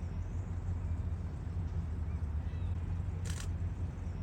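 A boat's engine running at low idle, a steady low hum, with a brief hiss about three seconds in.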